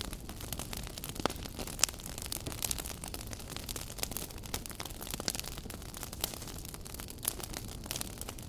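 Wood fire burning in a fireplace: a low steady rush of flames with irregular crackles and sharp pops of burning wood.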